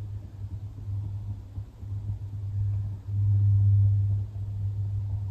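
A low, steady droning hum that swells and fades, loudest about three to four seconds in. It is an unidentified noise in the woods.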